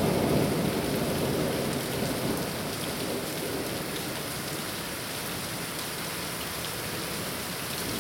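Heavy rain falling steadily, with a low rumble of thunder that fades out over the first two or three seconds.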